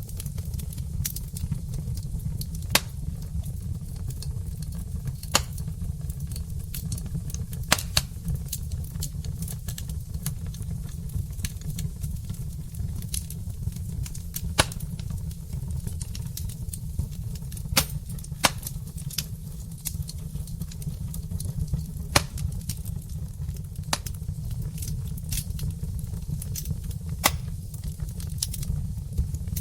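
Log fire burning in a fireplace: a steady low rumble with sharp crackles and pops every two or three seconds.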